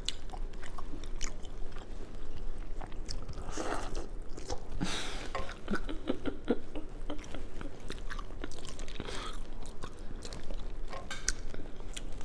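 Close-up chewing and biting of seafood-boil corn on the cob, with many wet mouth clicks and smacks.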